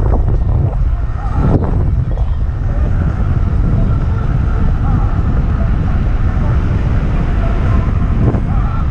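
Electric skateboard riding over a trail: a steady low rumble of wind buffeting the microphone and wheels rolling, with a faint steady whine above it.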